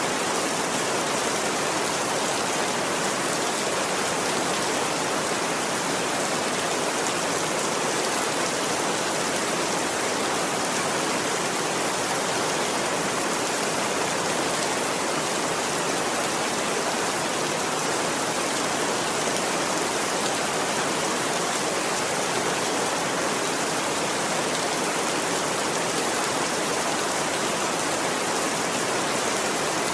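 Steady rain, a dense, even hiss of falling water that holds the same level throughout without let-up.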